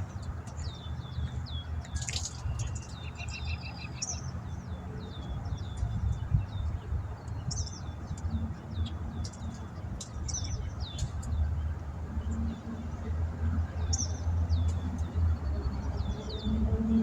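Birds chirping over and over, short high calls that slide downward in pitch, over a steady low rumble.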